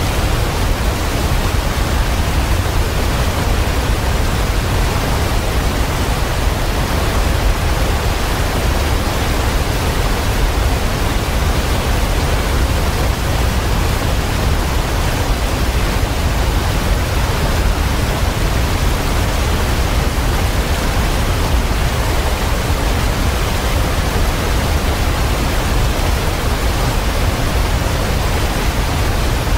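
Waterfall: a loud, steady rush of falling water, heaviest in the low end and unchanging throughout.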